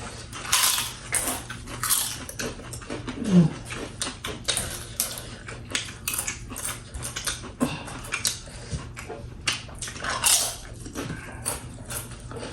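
Close-miked eating sounds during a spicy-food mukbang: a quick run of wet mouth smacks and chewing clicks, with a short low voiced sound about three seconds in.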